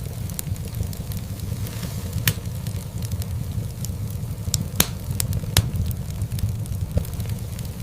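Wood fire crackling in a fireplace: a steady low rumble of burning logs with scattered sharp pops, a few louder ones from about two seconds in to past the middle.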